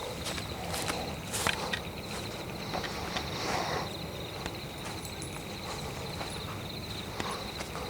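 A few crunching footsteps on leaf litter in the first half, over a steady high insect trill and a constant low rumble.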